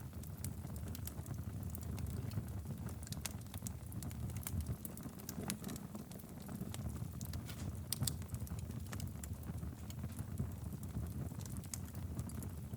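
Wood fire burning steadily in a fireplace: a low rumble of flames with frequent irregular crackles and sharp pops.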